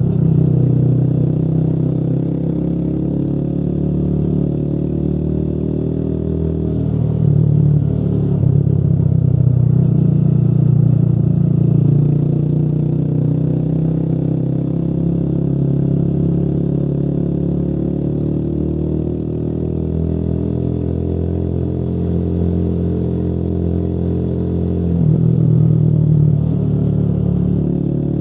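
Motorcycle engine running on the move, its pitch climbing slowly through the second half. It gets louder for a few seconds about a quarter of the way in and again near the end.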